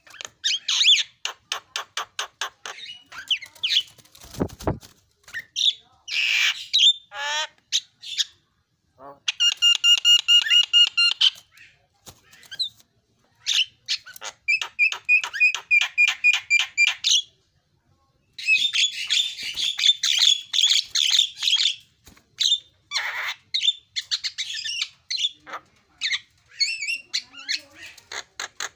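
Javan myna (jalak kebo) calling in bursts: fast rattling chatter of rapid clicky notes, harsh squawks, and a clear whistled phrase near the middle, with short pauses between bursts.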